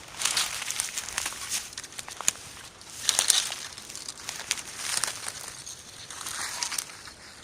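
Footsteps crunching in snow, an uneven series of crisp crunches about once a second.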